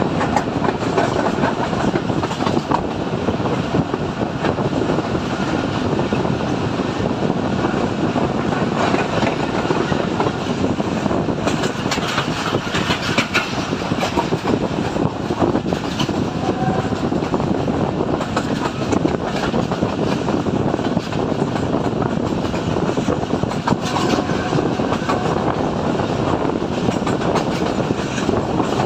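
Pakistan Railways Subuk Raftar Express railcar running along the line, heard from on board: a steady rumble of wheels on rails, broken by a few sharp clicks.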